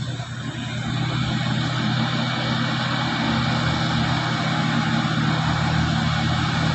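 Heavy truck's engine running steadily with a low, even tone.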